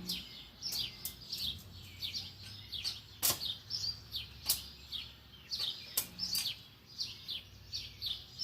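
Small birds chirping over and over, each call a quick falling note, with a few sharp clicks cutting through about three, four and a half, and six seconds in.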